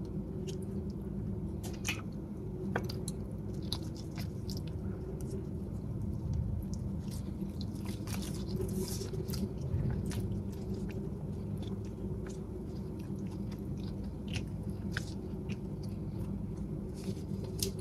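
Close-up biting and chewing of a sticky bánh gai, a black glutinous rice cake in a dried leaf wrapper: many scattered mouth clicks over a steady low hum.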